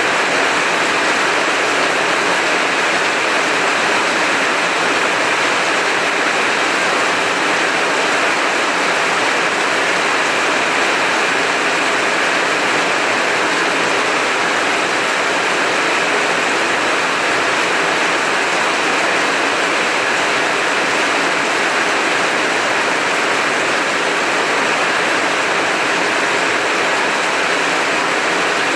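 Heavy rain falling steadily, a dense even hiss with no breaks and no thunder.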